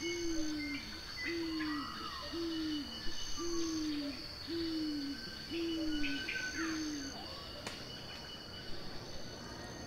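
Tropical forest evening ambience: a bird's low hoot repeated seven times at about one a second, each note dipping in pitch at its end, over a steady high insect trill and scattered bird chirps. The hoots stop about seven seconds in, leaving the insects and chirps.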